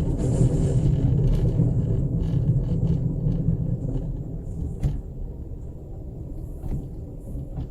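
Low rumble of a passenger train heard from inside a compartment, loud at first and easing off over the last few seconds, with a few faint clicks and rattles.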